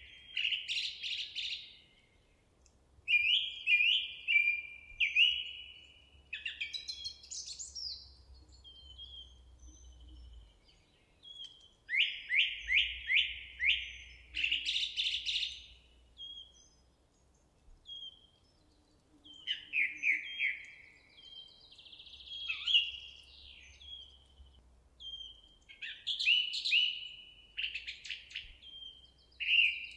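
Songbird singing in short, repeated phrases of quick falling whistled notes, each phrase a couple of seconds long, with brief pauses between them.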